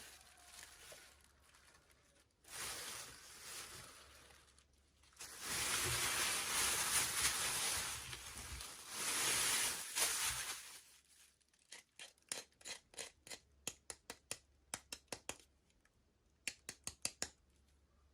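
Toy packaging being torn and rustled open in two spells of noise, the second louder, followed by a rapid, irregular run of small sharp clicks.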